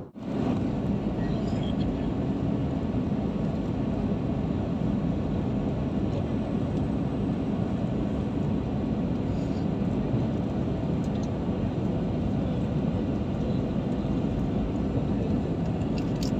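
Steady low rushing drone of an Airbus airliner's cabin, the noise of its engines and airflow heard from a passenger seat.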